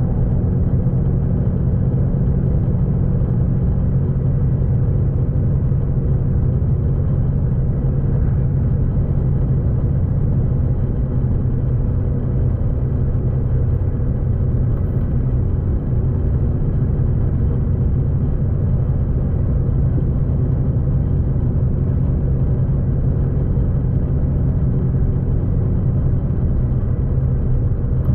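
Steady low rumble of a V/Line passenger train running along the line, heard on board, with a constant low drone and no sudden sounds.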